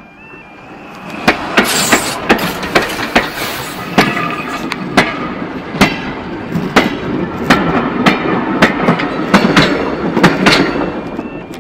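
Steam train passing directly over a microphone set between the rails. The rumble builds over the first second, then the wheels run overhead with a heavy rumble and sharp clicks, about two a second, fading near the end.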